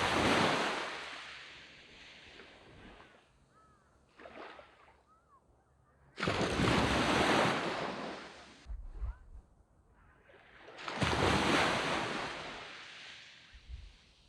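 Sea waves breaking on a sand beach: three waves crash about five to six seconds apart, each arriving suddenly and then washing out over a few seconds.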